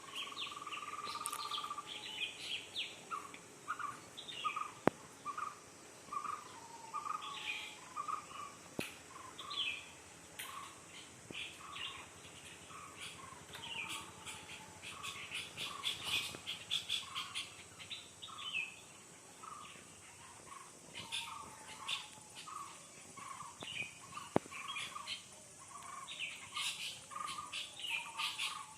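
Several birds chirping and calling together. One bird repeats a short call over and over, about once or twice a second, while others add quick high chirps and the odd falling note.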